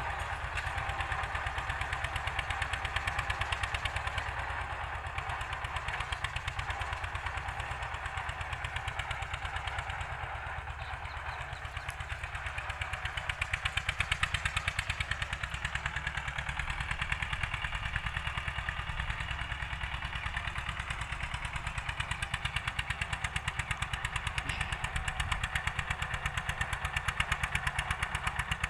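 Old Eicher tractor's diesel engine running steadily with a fast regular beat, working under load while cultivating a field. It eases off a little about ten seconds in and picks up again a few seconds later.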